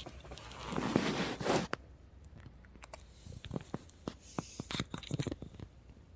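Diecast toy's packaging being opened by hand: a loud tearing, crinkling rush about a second in, then a run of small clicks and scrapes of plastic and card as the package is worked open.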